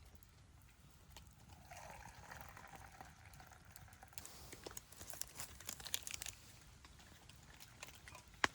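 Liquid being poured into a cup for about two seconds, followed by a run of light clicks and taps and a single sharper click near the end.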